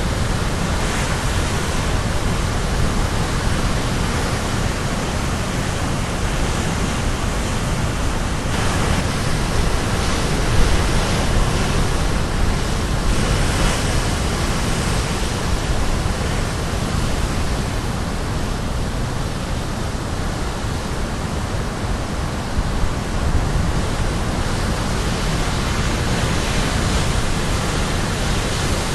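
Ocean surf crashing continuously: a steady, dense wash of breaking waves. Waves break a little brighter about nine seconds in and again around thirteen seconds.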